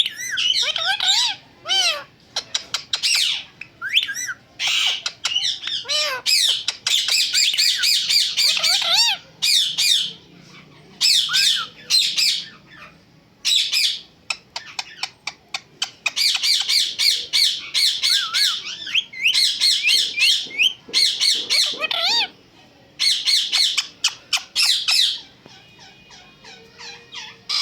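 Pet parrot squawking and chirping in rapid runs of high, sweeping calls, in bursts with short pauses between them.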